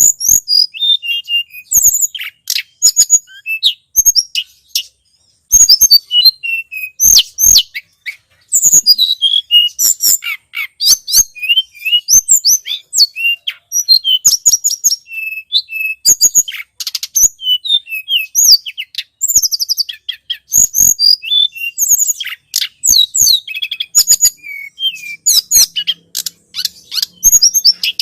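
Mountain flowerpecker ('tledekan gunung') lure recording: rapid runs of thin, high-pitched chirps and sharp ticking notes, repeated with short pauses.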